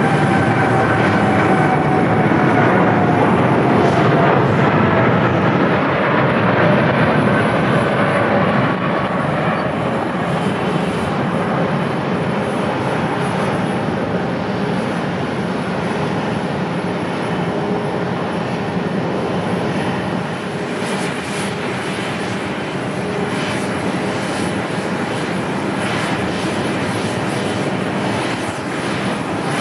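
Jet airliner passing close on landing at an airport: a loud roar with an engine whine that slides down in pitch over the first several seconds, then settles into a slightly quieter steady roar.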